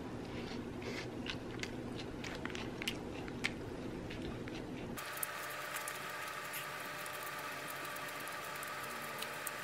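Someone chewing a bite of sandwich close to the microphone: small scattered crunches and clicks over a steady background hiss, which changes abruptly about halfway through.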